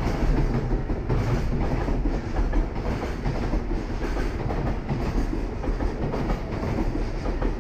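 A freight train of container wagons passing at speed: a steady rumble and clatter of wheels running on the rails.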